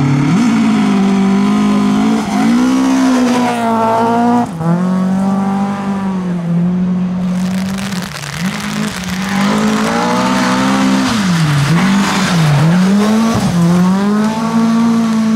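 Volvo 740 rally car's engine driven hard at high revs, its pitch holding, then dropping sharply and climbing again several times as the throttle is lifted and reapplied through gear changes.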